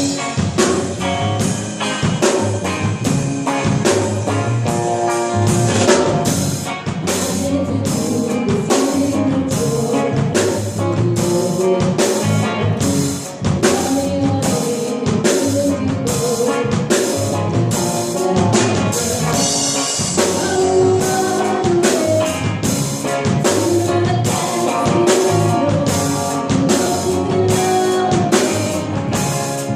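Live band playing a cover song, a drum kit keeping a steady beat of about two hits a second under guitar and other instruments.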